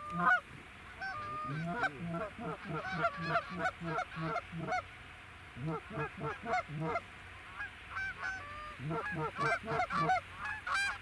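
Geese honking and clucking: many short calls overlapping in quick runs, pausing briefly and picking up again. A sharp bang sounds at the very start.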